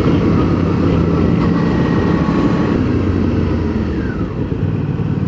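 Motorcycle engine running at a steady pace on the move, with a steady rush of noise over it.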